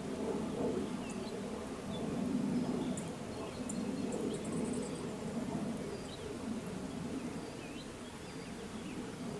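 Outdoor nature ambience: scattered short bird chirps and a quick high trill over a steady, wavering low hum.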